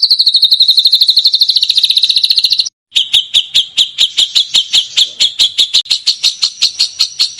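Songbird recording: a very fast trill of sharp, high repeated notes, about fifteen a second and dropping slightly in pitch. It breaks off abruptly near three seconds in and resumes as a slower, steady string of sharp notes, about six a second, the rapid-fire 'tembakan' style of call.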